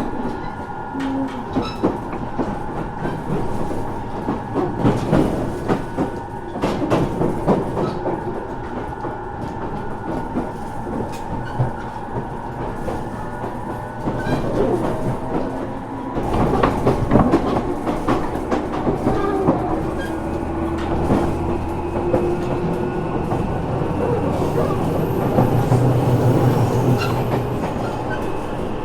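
Running sound of a JR Kyushu 415 series 1500 subseries electric train, inside motor car MoHa 414-1513, a car labelled as having an abnormal running noise: steady hum with wheels clicking over rail joints. From about halfway through the running gets louder and a motor whine climbs slowly in pitch as the train picks up speed.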